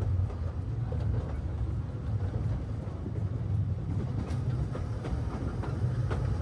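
Kurobe Gorge Railway narrow-gauge train running, heard from on board: a steady low rumble of the wheels on the rails with a few sharp clicks.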